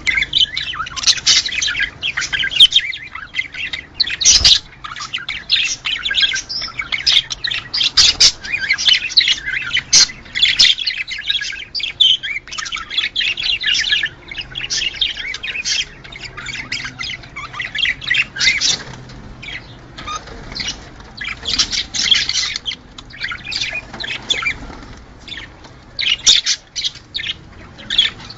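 A flock of budgerigars chattering and warbling without a break, a dense mix of quick chirps and harsher squawks.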